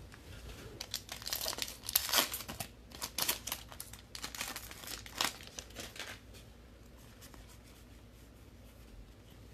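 A foil trading-card pack wrapper crinkling and being torn open, a run of sharp crackling for about five seconds, then dying away to quiet handling.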